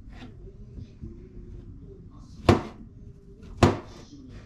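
Two sharp kitchen knocks about a second apart, over faint television speech.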